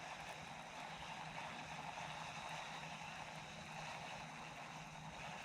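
Faint, steady ambient noise of open water around a kayak, with a low steady hum underneath.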